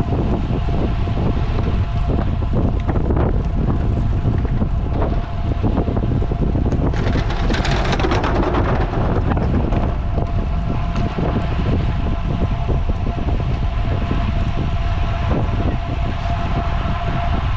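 Wind buffeting the microphone of a camera riding along on a moving road bicycle, a loud steady low rumble. About seven to nine seconds in, a brighter hiss rises and fades.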